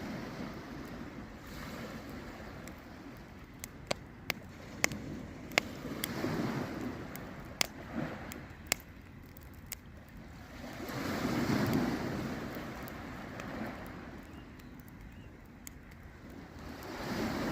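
Campfire crackling, with about ten sharp pops of burning wood, most of them in the first half. Behind it, waves wash onto the shore in slow swells about every six seconds, with some wind on the microphone.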